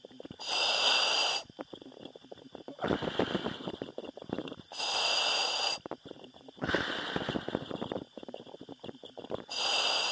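A diver's breathing heard over the diving radio: breaths through the demand valve about every two seconds, each a hiss lasting about a second, alternating between a sharp high hiss and a duller, rougher one.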